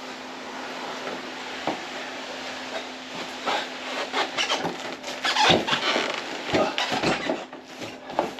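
Handling noise in a small room: irregular knocks, scrapes and rustles, busiest in the middle few seconds, over a steady low hum.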